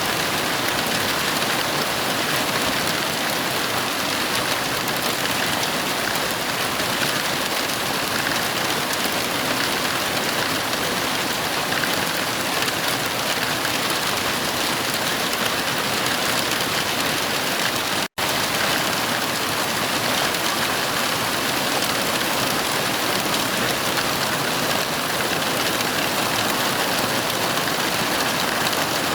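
Heavy rain falling steadily, an even dense hiss, that cuts out to silence for a split second about two-thirds of the way through.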